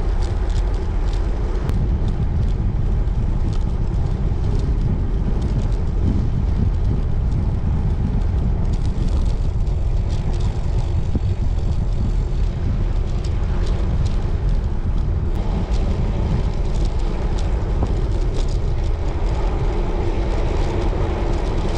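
Wind buffeting the microphone of a rider on a moving road bike: a steady low rumble, with faint scattered clicks over it.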